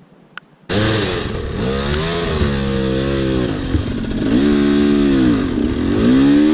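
Two-stroke dirt bike engine, coming in suddenly about two thirds of a second in and revving up and down repeatedly, about four times, as the throttle is worked.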